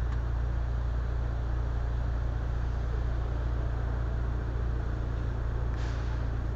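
Steady low rumble and rushing noise of wind on the microphone and road noise during an electric unicycle ride, with a short hiss near the end.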